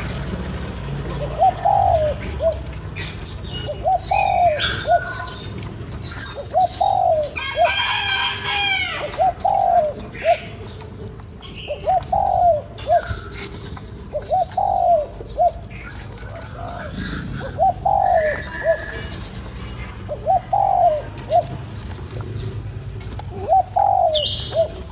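A spotted dove cooing its multi-note call over and over, a phrase every two to three seconds. Smaller birds chirp faintly in between, and a louder, harsher call sounds about 8 seconds in.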